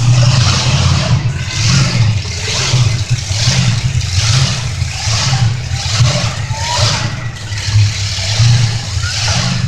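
Monster truck engine running with a heavy low rumble and revved in repeated blips, about three every two seconds.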